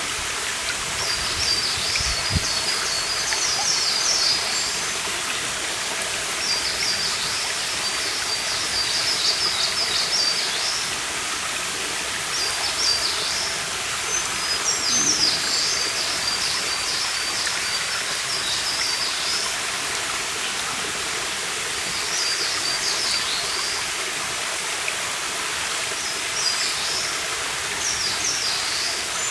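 A stream running steadily with a continuous rushing sound, while a small songbird sings short, high-pitched phrases in bouts every few seconds.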